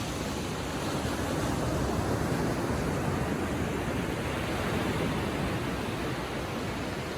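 Ocean waves lapping gently on the shore: a steady wash of surf that swells a little a couple of seconds in and eases off near the end.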